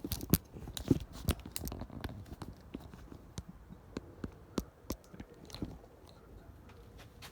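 Scattered sharp clicks and knocks of parts and tools being handled, quick at first and thinning out after about six seconds.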